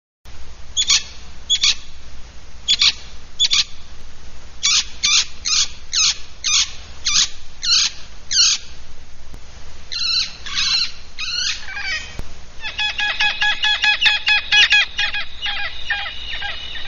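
A bird singing: a run of short, sharp calls that fall in pitch, one or two a second, then a few more complex notes, and in the last few seconds a fast trilling warble.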